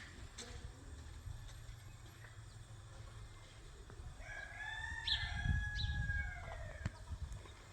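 A rooster crowing once, a single long call of about two and a half seconds in the second half, over a steady low rumble.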